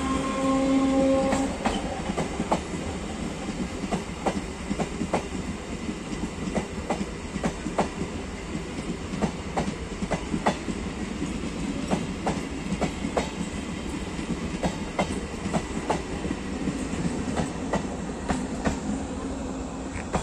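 Indian Railways passenger coaches rolling past close by: a steady rumble with the wheels clicking unevenly over rail joints, a clickety-clack. A steady pitched tone sounds over the first second and a half.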